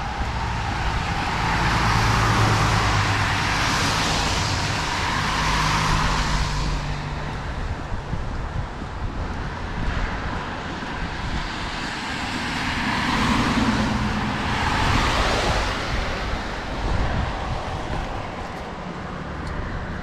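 Cars passing on a rain-wet road, their tyres hissing. Two pass by, swelling up and fading away, one starting about a second in and another around twelve seconds in, over a steady rumble of traffic and wind.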